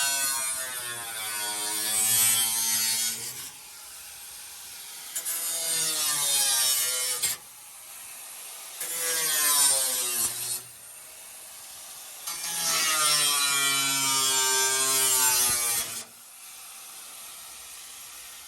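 Power tool cutting through a car's sheet-metal body in four runs of a few seconds each, its whine dipping and rising in pitch as the blade loads up in the metal.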